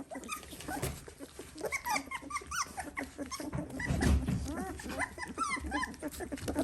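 Three-week-old Dalmatian puppies squeaking and whining in many short, overlapping cries that rise and fall, calling out while hungry at feeding time. A low rumble comes about four seconds in.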